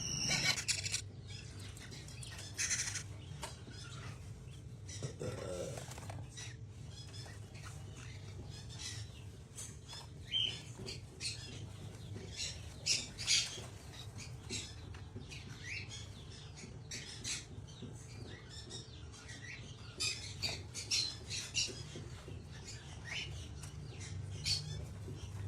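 Parrots calling with short, scattered chirps and squawks, a few every second, over a steady low hum.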